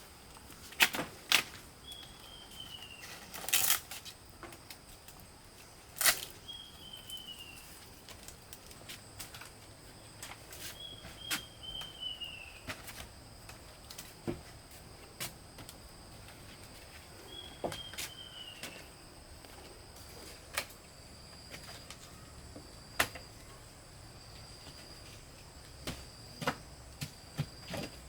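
Scattered sharp knocks and clicks at an irregular pace. A short falling whistle sounds four times over a faint steady high drone.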